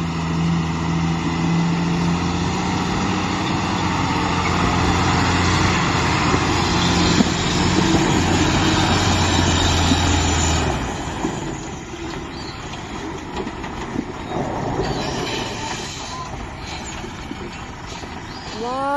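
Small electric motor of a battery-powered toy vehicle whirring with a plastic rattle. The steady hum stops about eleven seconds in, leaving rattling and scattered clicks.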